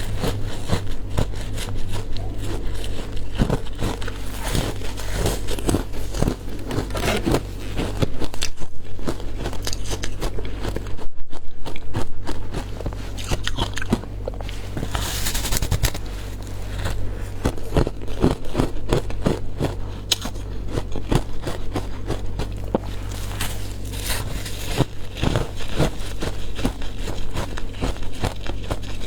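Frozen matcha ice being bitten and chewed close up: dense, irregular crunching and crackling, loudest in two stretches about a third of the way through, over a steady low hum.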